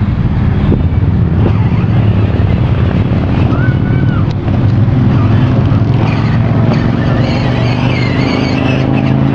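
Battery-powered kids' ride-on Grave Digger monster truck driving off: its electric drive motor and plastic wheels running with a steady low hum.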